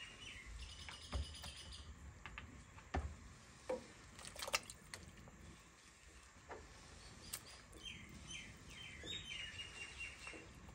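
A bird chirping in quick repeated series, one run about half a second in and another near the end. Between the runs there are a few faint short clicks and knocks.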